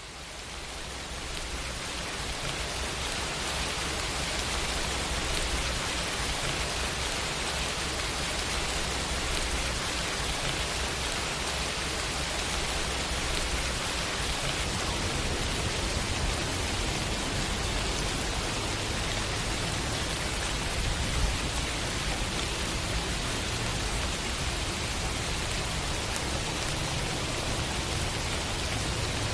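Steady rain, fading in over the first few seconds and then holding an even hiss.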